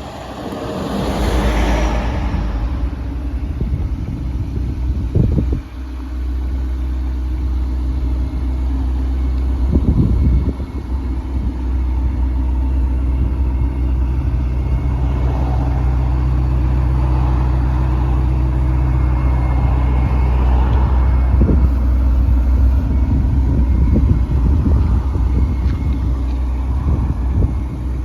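Ferrari Portofino's twin-turbo V8 running with a steady low rumble. A rushing noise swells in the first two seconds, and there are brief knocks about five and ten seconds in.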